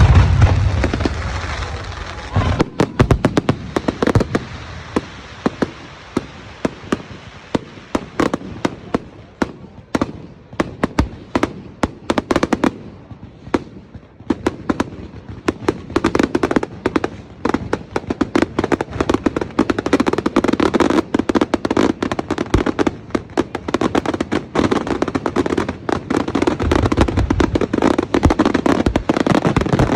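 Fireworks display: a deep bang right at the start, then rapid crackling and popping of fireworks throughout, with another deep bang near the end.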